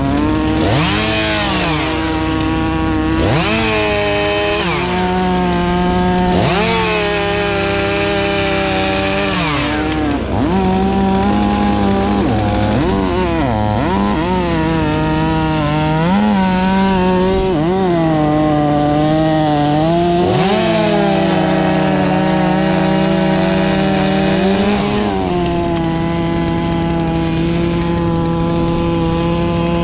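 Chainsaw running hard throughout, its pitch dipping and climbing back again and again, as when the saw bogs under load in a cut and revs back up.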